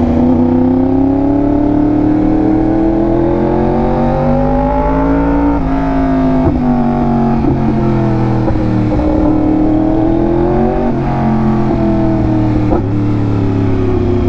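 Yamaha R1M's inline-four engine through an SC Project exhaust, under load. It rises in pitch, drops at an upshift about five seconds in, rises again and drops at another shift about eleven seconds in.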